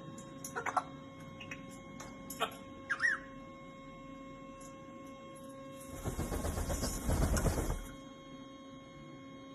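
Grey parrot making a few short clicks and squeaks and a brief whistle, then a rustling burst of about two seconds. A steady electrical hum runs underneath.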